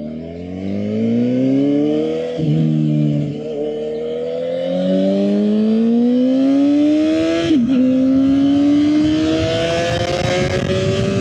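Suzuki GSX-R750's inline-four engine accelerating through the gears: the revs climb steadily in each gear, and the pitch drops sharply at an upshift twice, about two seconds in and again about seven and a half seconds in. Wind noise rises as speed builds.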